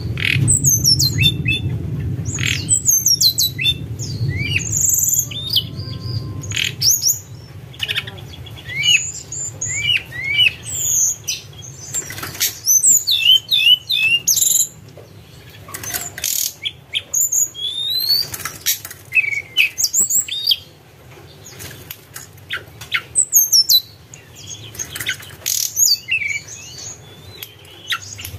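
A tledekan gunung songbird singing a long run of clear whistled, flute-like notes and quick chirps, many sliding up or down in pitch, with short pauses between phrases. A low rumble lies under the song, strongest in the first seven seconds.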